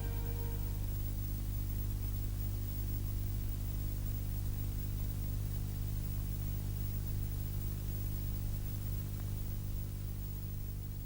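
A steady low hum with a faint hiss. The last notes of music die away in the first half second.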